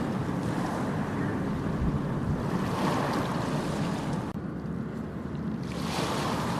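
Ocean waves breaking and washing up a beach, the surf swelling in a rush of hiss every few seconds, with a low rumble of wind on the microphone.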